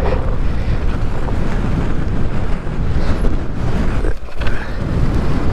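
Strong wind buffeting the microphone: a loud, continuous low rumble with a brief lull about four seconds in.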